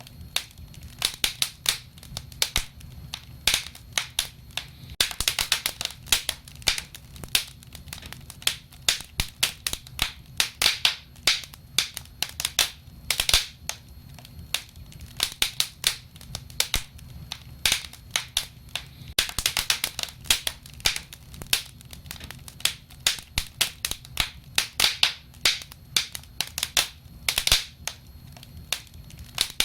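Wood fire burning and crackling, with irregular sharp pops and snaps over a low steady rumble of the flames; the crackling comes in denser flurries every few seconds.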